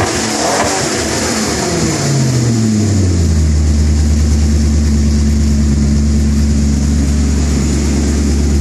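Maserati Coupe's V8 running through a Fabspeed muffler bypass, with the stock resonator X-pipe and catalytic converters. It is revved, the revs fall back over a second or so, and from about three seconds in it settles into a steady idle.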